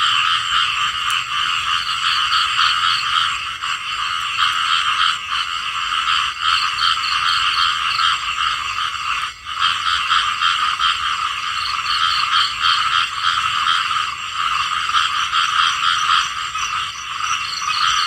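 Small frogs calling together in a continuous chorus of rapid, pulsed croaks, with a brief dip about nine seconds in.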